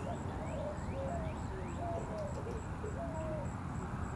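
Birds calling: a run of short whistled and cooing notes with a few quick rising chirps. Underneath are a faint high pulsing tone, about three pulses a second, and a low steady rumble.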